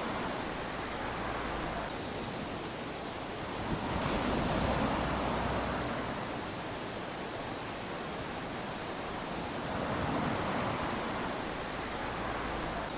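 Small waves lapping onto a sandy shore: a steady wash of surf that swells twice, about four seconds in and again about ten seconds in, then subsides.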